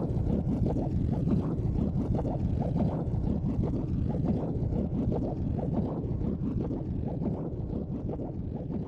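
Wood fire burning in a secondary-combustion fire pit: a low, flickering rumble that grows steadily fainter toward the end.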